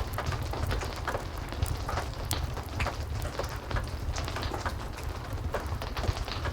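Steady heavy rain mixed with a fireplace crackling, irregular sharp crackles and pops over a constant rain hiss and a deep low rumble.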